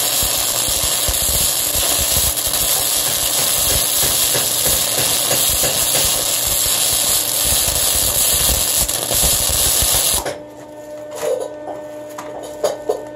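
Flux-core arc welding on thick mild steel plate: the wire-feed welder's arc crackles and hisses steadily, then cuts off about ten seconds in. A low steady hum remains after the arc stops.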